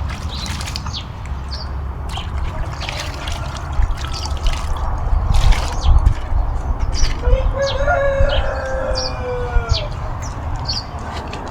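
Rain falling and dripping, with many sharp drip clicks over a low rumble. A rooster crows once, starting about seven seconds in, and a small bird chirps repeatedly throughout.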